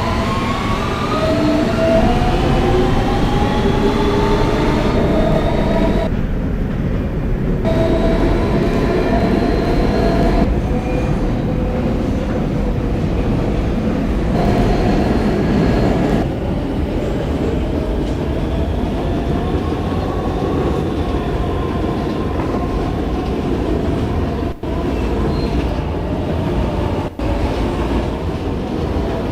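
Interior sound of an R160B subway car with Siemens traction motors under way: the motors' whine climbs in pitch over the first couple of seconds as the train accelerates, then holds steady over the rumble of wheels on track. Two brief dips in the sound come near the end.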